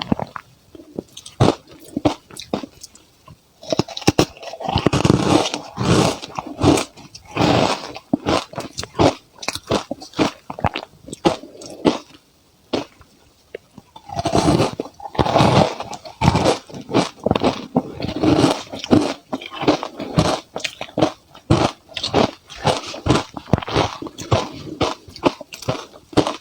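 Ice being bitten and crunched between the teeth, in many sharp crunches. There is a dense run of loud crunching about four to eight seconds in and again about fourteen to sixteen seconds in, with chewing crunches in between.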